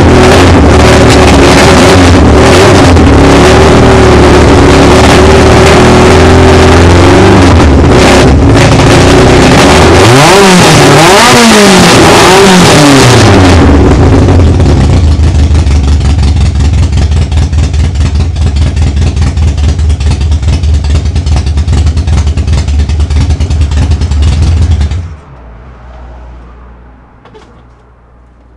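Tuned VAZ 2108's 1.6-litre 16-valve carburettor engine with a 4-1 header, running very loud just after starting. It is revved up and down two or three times about ten seconds in, settles back to a lumpy idle, and is switched off near the end.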